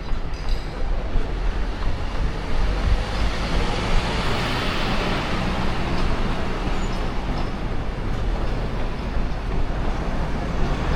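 Steady city road traffic noise, with a vehicle passing and swelling louder about four to six seconds in.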